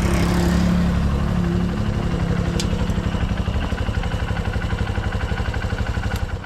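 Motorbike engine idling with an even, pulsing beat, a little louder in the first second or two, then cutting off suddenly at the end.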